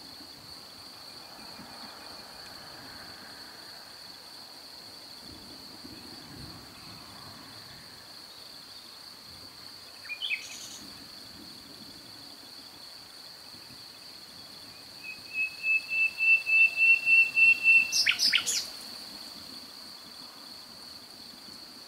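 A bird calls a rapid series of repeated notes, about four a second for some three seconds, ending in a couple of sharp high notes; a single short chirp comes about ten seconds in. Beneath it, a steady high cricket chirring.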